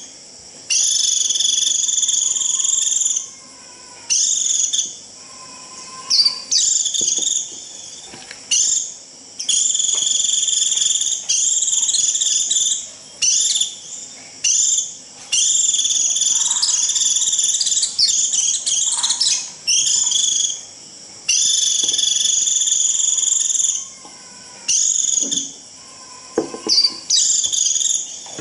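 White-eye (vành khuyên) giving its shrill 'rít' call: long, high, buzzing notes, each held one to three seconds and repeated with short breaks. This is the flock-calling call that draws other white-eyes in.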